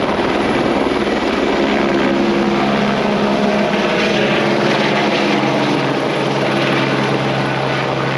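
Helicopter running steadily, its rotor giving a fast, even chop over a low engine hum.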